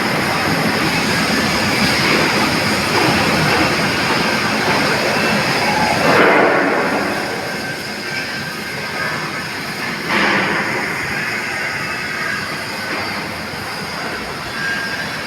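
Stick (MMAW) welding arc on stainless steel, crackling and hissing steadily, with brief louder surges about six and ten seconds in.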